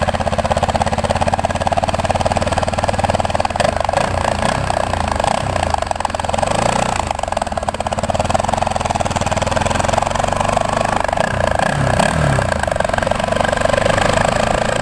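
Bajaj Pulsar NS200 single-cylinder engine running through a modified exhaust, meant to sound like a KTM Duke 200, with its pitch rising and falling a few times as the throttle is blipped.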